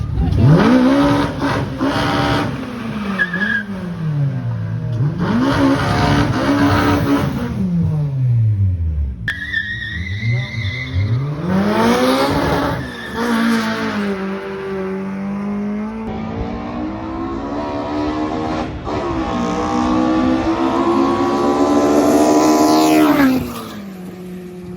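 Drag racing cars' engines at full throttle, revving up and dropping back several times as they shift gears, then one long, rising pull that cuts off sharply near the end. Tyres squeal at times.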